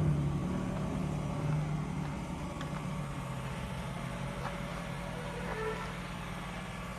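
A motor vehicle's engine hum fading steadily as it moves away, over street background noise.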